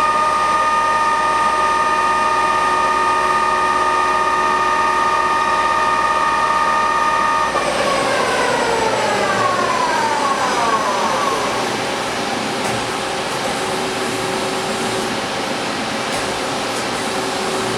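Sharp STA-4460 big-bore CNC lathe spindle running with a steady whine at its called-out speed of 350 rpm, then winding down in a falling whine from about eight seconds in as the spindle stops. The machine's steady hum continues after.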